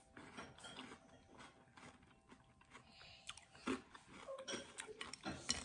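Close-up chewing of a mouthful of crunchy water chestnut from an iced dessert: faint, scattered crunches and mouth clicks, with a few louder crunches in the second half.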